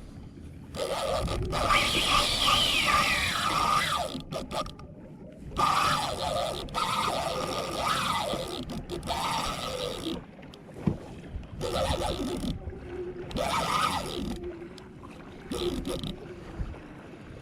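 Spinning reel's drag squealing in repeated bursts of several seconds as a fish pulls line off, the pitch sliding up and down.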